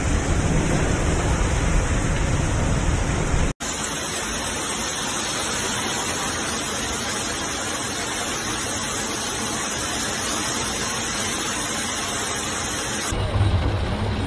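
Heavy storm noise: a downpour with floodwater rushing through a street, cutting abruptly about three and a half seconds in to a steady hiss of torrential rain. Near the end it changes again to a lower sound with a low hum.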